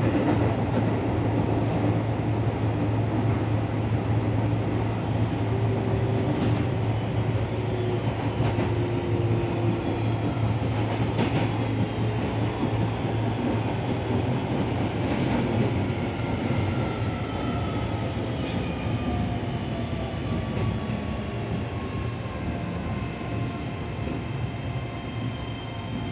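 Keio 7000 series commuter train heard from inside the car, slowing for a station: a steady rumble of wheels on rail with a low hum and a few clicks, and in the second half a motor whine falling in pitch as the train brakes, the whole sound slowly growing quieter.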